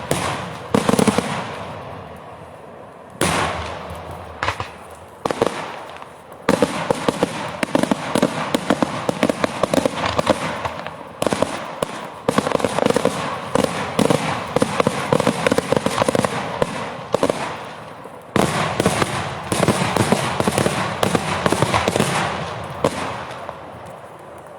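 Daytime fireworks going off: rapid volleys of loud bangs and crackling, in surges that start abruptly about 3, 6, 11 and 18 seconds in and thin out between them.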